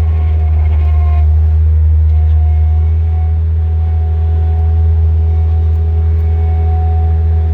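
Bobcat 763 skid-steer loader's diesel engine running at a steady speed: a loud, deep, even drone.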